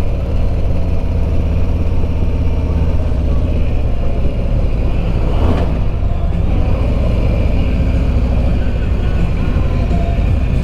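Harley-Davidson Road Glide Limited's V-twin engine running steadily while riding at cruising speed, with wind noise over it. A brief whoosh about five and a half seconds in.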